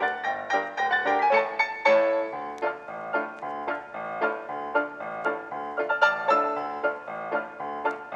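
Background music: a quick run of piano-like keyboard notes, several a second.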